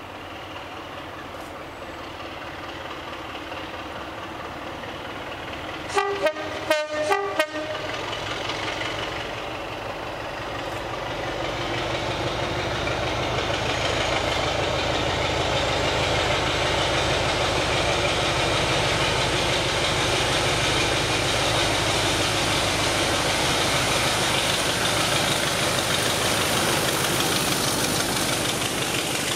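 Train horn sounded in a quick series of short blasts about six seconds in, then the train's engine and running gear growing louder and running steadily as it draws close.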